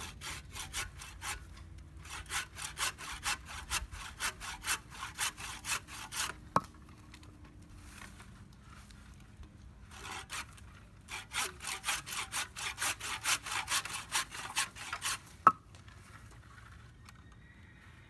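Handsaw cutting dry dead wood in quick back-and-forth strokes, about two to three a second, in two runs with a pause between. A single sharp crack ends each run.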